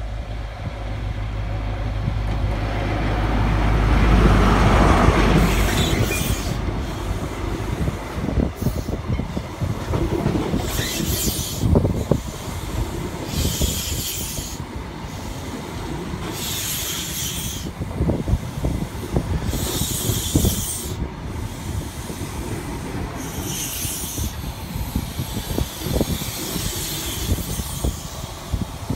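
A passenger train running past at close range. A low engine hum swells as the front of the train arrives, then the carriages go by with knocks from the wheels and a hiss that comes back about every three seconds.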